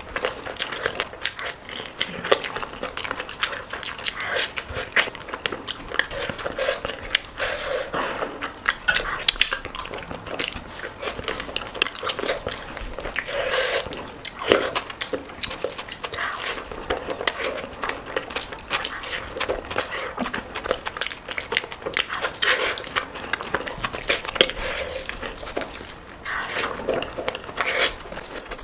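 Close-miked eating: a person biting, chewing and smacking on curry, rice and roti, with dense irregular wet clicks and crunches.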